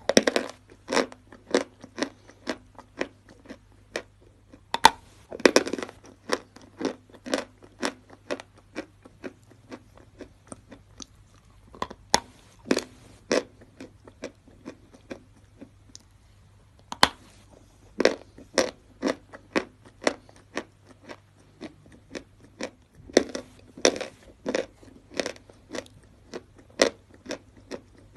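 Natural chalk being bitten and chewed close to the microphone: sharp dry crunches, roughly two a second, in runs with short pauses between them.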